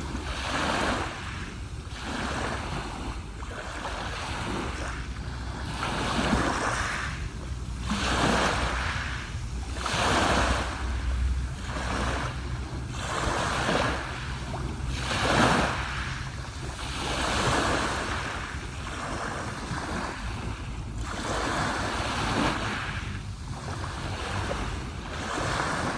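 Sea waves washing in on the shore, the surf swelling and fading in repeated surges every second or two.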